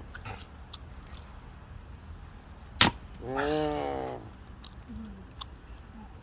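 An axe strikes a log once, a single sharp crack of firewood being split about three seconds in, followed at once by a drawn-out vocal sound lasting about a second, slightly falling in pitch.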